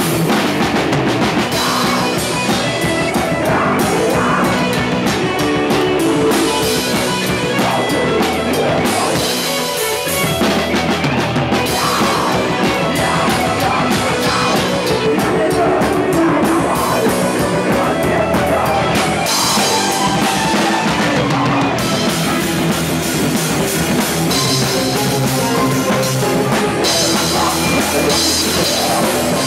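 Rock band playing a song with a full drum kit, loud and steady throughout.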